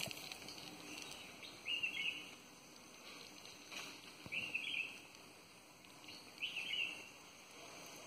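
A bird calling three times, a short high call about every two and a half seconds, over a faint outdoor background.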